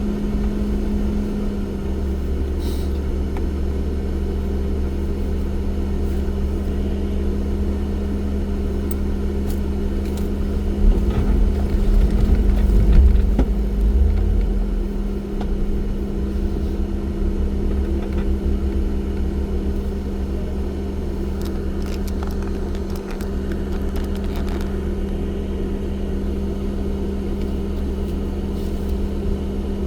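Off-road vehicle engine running at a steady pace with a low rumble and an even drone, swelling briefly about a third of the way in.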